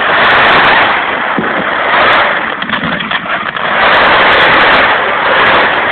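Fireworks display going off in a dense barrage of bursts and crackle, loudest in two swells: over the first two seconds and again around four to five seconds in.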